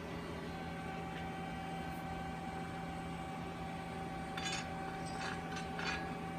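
Steady mechanical hum of room equipment, with a few short rustling or scraping handling noises about four to six seconds in.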